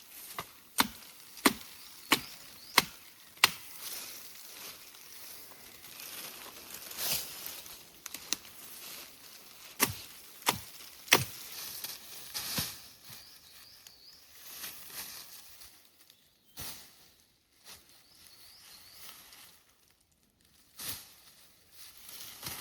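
A run of sharp knocks like chopping: five in a steady row about two thirds of a second apart, then three more a few seconds later, followed by a few scattered softer knocks.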